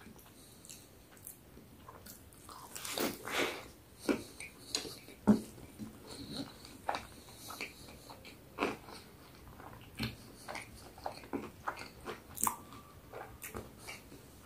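Close-miked chewing of a burger with crispy fried chicken fillets: irregular crunches and wet mouth sounds, with a sharper crunch about five seconds in.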